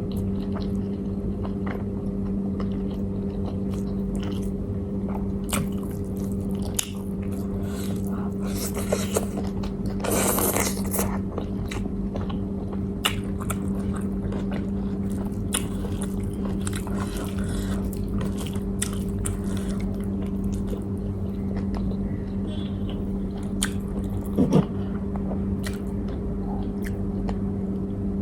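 Close-miked eating: a person biting and chewing food with small crunches and wet clicks, over a steady low hum.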